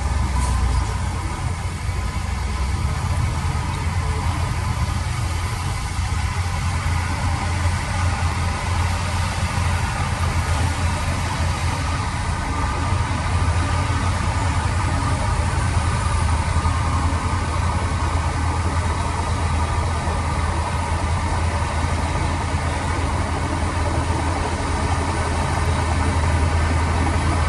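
Diesel engine of a heavy construction machine running steadily with a low, even rumble.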